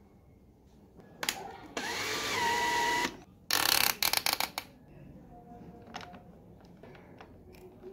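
A small handheld power tool spins up with a rising whine that levels off, runs for about a second and stops. Then a louder, noisier burst with rapid clicks follows as it works against metal, and scattered light clicks from handling come after it.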